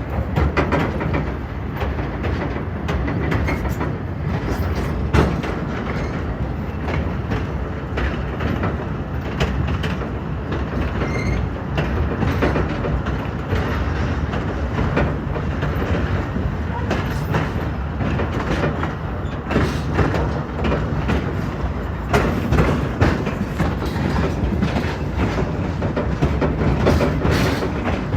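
A train rolling along the track, with its wheels clicking and the cars rattling in a steady run of clacks and knocks.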